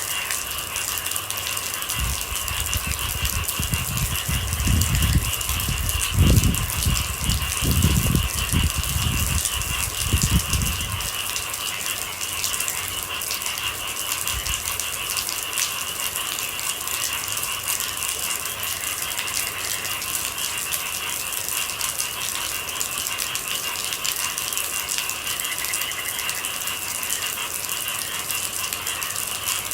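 Steady rain pattering densely, with a low rumble swelling and fading from about two to eleven seconds in.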